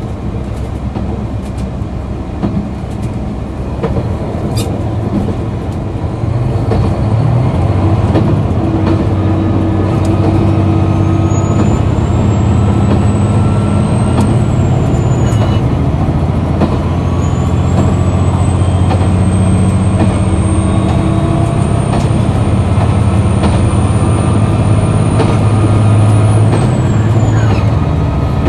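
Diesel engine of a KiHa 261 series railcar running under power, growing louder about seven seconds in. Over it a high whine rises in pitch, drops away after about fourteen seconds, then rises again and falls near the end.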